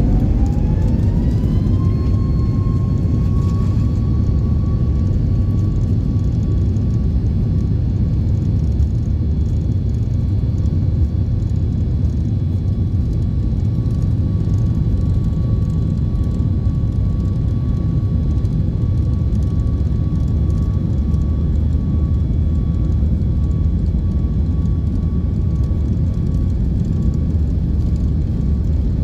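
Boeing 737 MAX 8's CFM LEAP-1B turbofan engines spooling up for the takeoff roll: a whine rises in pitch over the first two seconds, then holds steady at takeoff thrust over a continuous deep rumble.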